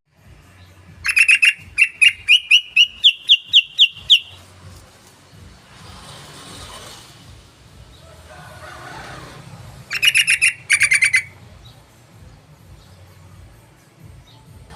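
Yellow-vented bulbul (trucukan) song: a loud, rapid run of bubbly notes lasting about three seconds and rising slightly in pitch, then a shorter burst of the same notes about ten seconds in.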